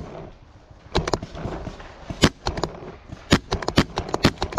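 Paintball markers firing: sharp pops in quick, irregular volleys, a couple of shots together about a second in and denser strings of shots from about two seconds in to the end.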